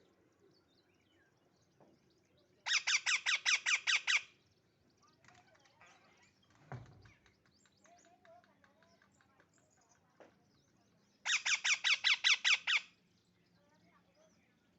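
Baby parrot squawking in two bursts of rapid, evenly repeated harsh calls, about seven a second, each burst lasting about a second and a half, with faint chirps between them.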